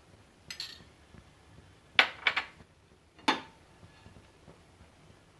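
Cookware knocking and clinking: a light clink about half a second in, then two sharp knocks in quick succession and one more a second later.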